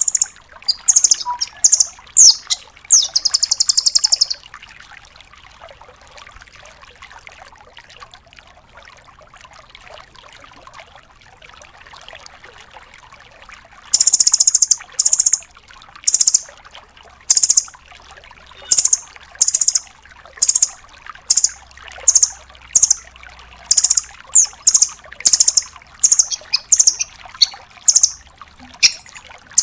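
Velvet-fronted nuthatch calling in sharp, high notes. The notes come in a quick series with a fast rattling trill about three to four seconds in. After a pause of about ten seconds with only faint background hiss, the sharp notes resume and repeat steadily, about one or two a second.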